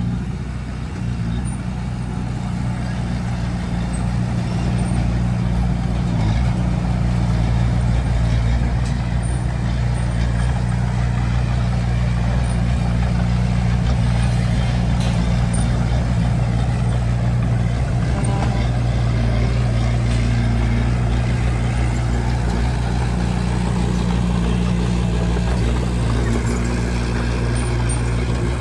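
Bulldozer's heavy diesel engine running steadily, a little louder from about four seconds in.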